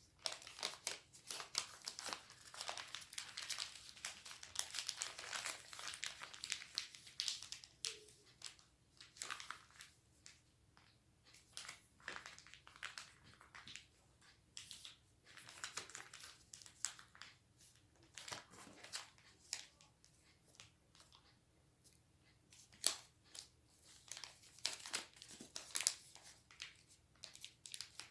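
Sheet of origami paper being folded and creased by hand: irregular crinkling and rustling with short sharp crackles, busiest in the first few seconds, then sparser.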